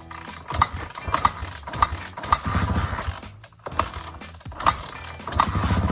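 Motorcycle being cranked to start after long storage, not yet running. There are repeated sharp mechanical clicks and clanks, with two short spells of the engine turning over and sputtering, the second near the end.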